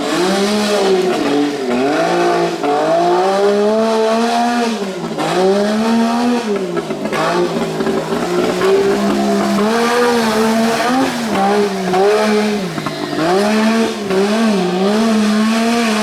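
A vehicle engine running hard at high revs, its pitch sagging and climbing back again several times in irregular swells.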